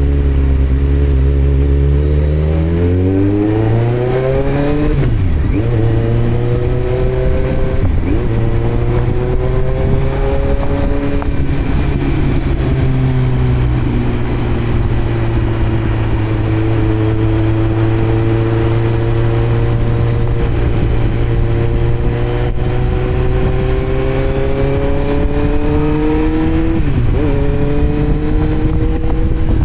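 Kawasaki Z900's inline-four running through a Yoshimura muffler and Delkevic headers with the dB killer removed, heard from on the bike. It revs up hard with quick gear changes about five and eight seconds in, then holds a steady cruise that slowly climbs, with another shift near the end.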